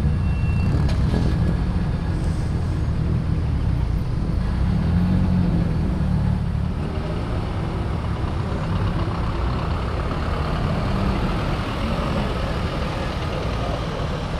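Car engines rumbling at low speed as modified cars roll out, a deep steady rumble that eases slightly after about six seconds.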